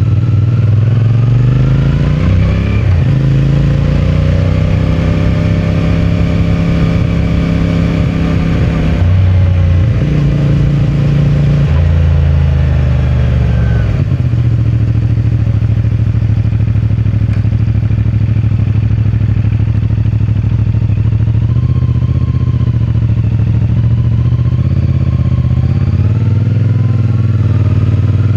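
CFMOTO 450MT's parallel-twin engine running under way through its stock exhaust. The revs climb in the first couple of seconds, hold steady, change in steps around the middle with gear shifts, settle lower, then rise again near the end.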